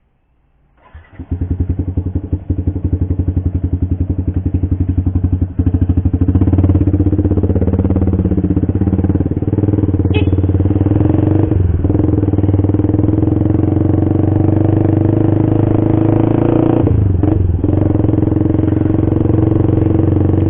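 Motorcycle engine with an aftermarket racing exhaust, starting about a second in and then running loud and steady with a fast, even pulsing beat.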